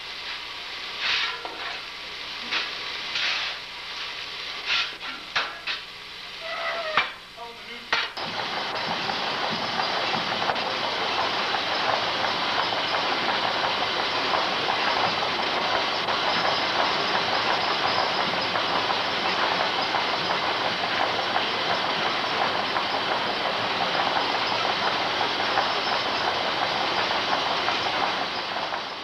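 Scattered irregular knocks and clanks, then about eight seconds in a loud steady hiss of escaping steam starts abruptly and keeps going.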